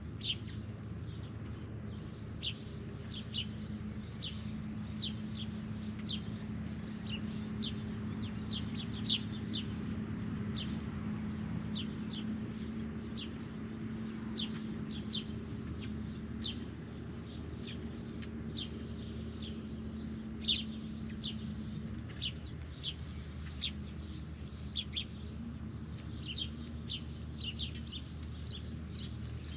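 Birds at a feeding spot giving many short, sharp chirps and chips at irregular intervals, over a steady low hum.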